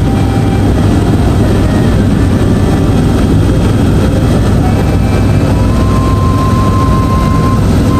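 Helicopter cabin noise in flight: a steady, loud low drone of the rotor and engine, heard from inside the passenger cabin.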